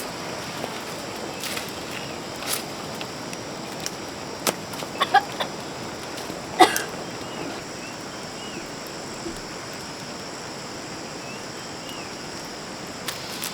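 Chickens clucking, with a few short squawks between about five and seven seconds in, the loudest near six and a half seconds, over a steady background hiss.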